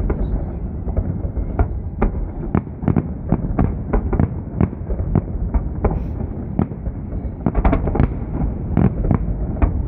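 Festive salute fireworks: shells bursting in quick succession, about two or three sharp bangs a second over a continuous low rumble, with a denser flurry of bangs about three quarters of the way through.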